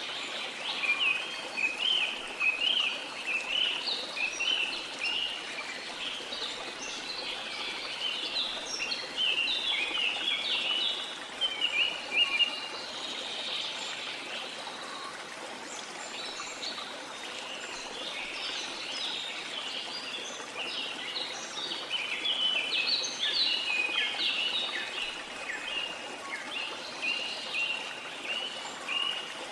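Many small birds chirping in quick, busy runs of short notes over a steady wash of sea water.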